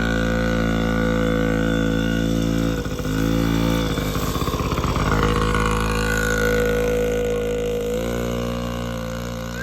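Yamaha PW50 dirt bike's small two-stroke single-cylinder engine idling. It runs unevenly for a moment about three seconds in and again around four to five seconds in, and the idle rises slightly about eight seconds in.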